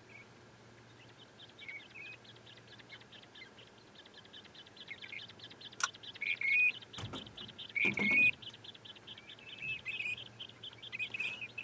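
Short bird chirps repeating every second or two over a fast, even ticking, with a few sharp knocks around six to eight seconds in.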